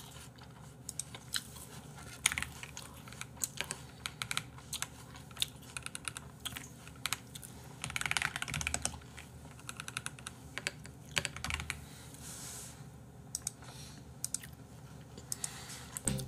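Crisp apple slices being chewed close to the microphone: irregular crunchy clicks, with a denser run of crunches about eight seconds in.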